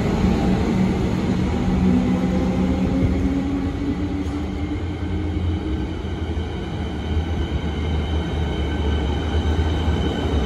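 Electric suburban trains: one pulls out with a motor whine rising in pitch over the first few seconds, while another runs in along the platform with a steady rumble and a thin high whine near the end as it slows.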